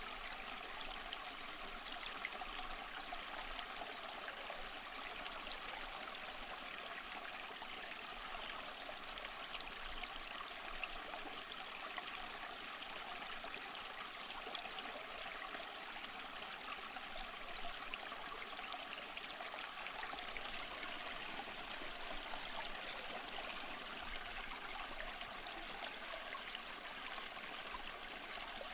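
Waterfall splashing steadily: an even, bright rush of falling water with little deep rumble.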